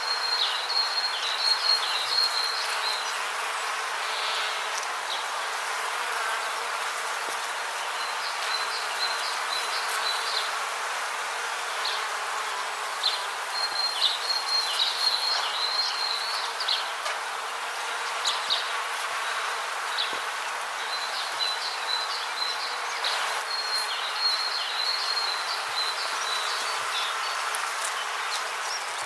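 Rainforest ambience: a steady background hiss with several bursts of rapid, high chirping calls, each burst lasting one to three seconds.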